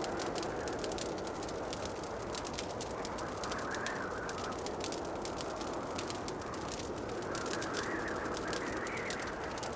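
Wood fire crackling in a fireplace: dense, irregular small pops and snaps over a soft, steady rushing that swells a few times.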